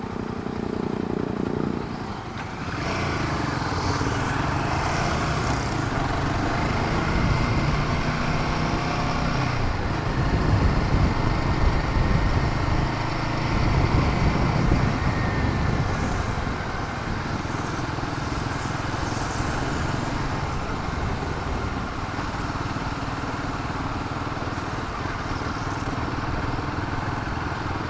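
Royal Enfield Himalayan 450's single-cylinder engine running under way in town traffic, with wind and road noise. The engine pitch rises and falls with the throttle and is loudest a little before the middle.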